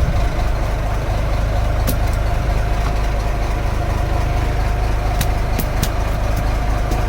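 Fishing boat's engine running steadily at idle, a constant low drone. A few sharp clicks sound over it, one about two seconds in and three in quick succession a little after five seconds.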